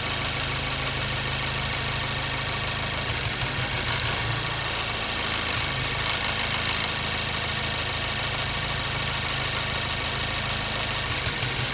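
2014 Mazda 3's 2.0-litre four-cylinder engine idling steadily at operating temperature, with a cylinder 2 misfire logged by the scan tool.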